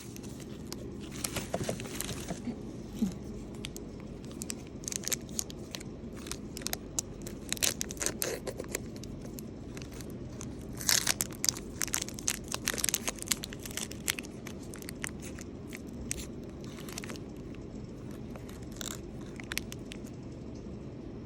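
Chocolate packaging being handled and opened: scattered crinkles, tears and small clicks of wrapper and box, busiest around the middle, over a steady low hum.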